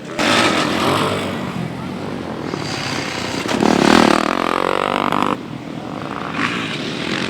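Motocross motorcycle engines revving hard, loudest a little past the middle; the sound jumps abruptly in level twice.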